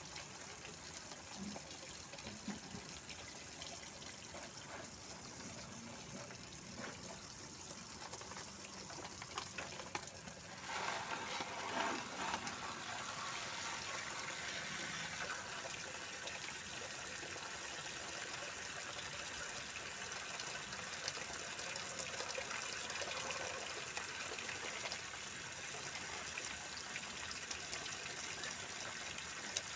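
Steady splashing and trickling of running water, which grows louder about ten seconds in.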